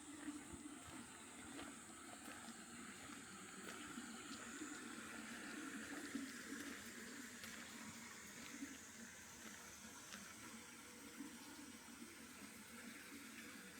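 Faint night chorus of frogs, a low, pulsing murmur of many calls, under a steady high trill of crickets and other insects.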